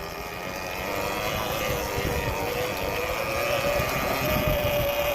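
Electric motor whine of a Surron Ultra Bee e-motorbike on the move: a single tone that rises slowly as the bike picks up speed, over wind rumble on the microphone.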